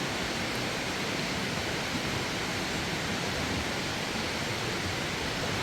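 Steady rush of a river's flowing water, an even hiss with no breaks.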